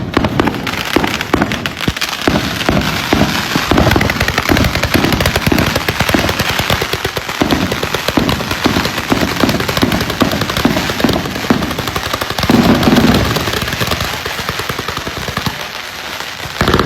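A 474-shot consumer fireworks finale cake firing its tubes in rapid succession, a dense volley of launch thumps and crackling, popping breaks. It thins and grows quieter over the last few seconds.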